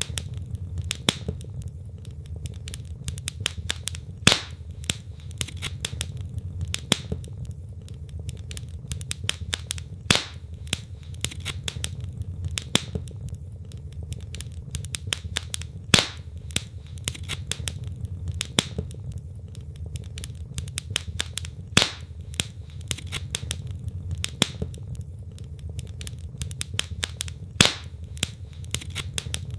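Wood logs burning in a fireplace, crackling: dense small snaps and clicks over a low steady rumble, with a louder pop about every six seconds.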